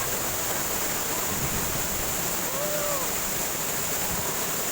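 Steady rush of flowing water from a stream or waterfall: an even hiss with no rhythm or break.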